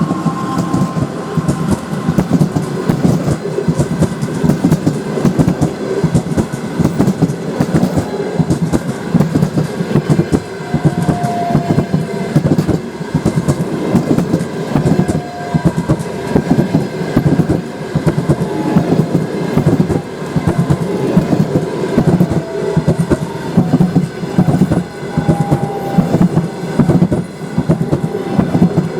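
Passenger train coaches rolling past, wheels clattering steadily over the rail joints, with a few short squeaking tones now and then.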